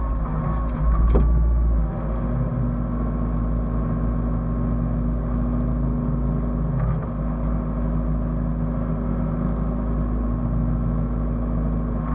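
Hyundai excavator's diesel engine running steadily under load, with a deep rumble and steady higher tones. There is a short knock about a second in, and the level eases slightly about two seconds in.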